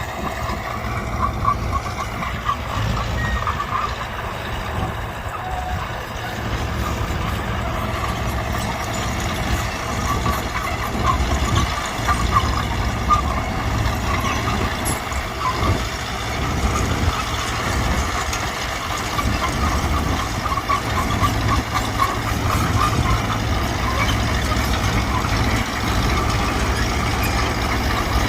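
Mitsubishi BD2G crawler bulldozer's diesel engine running steadily while working, with a fast light clatter over it.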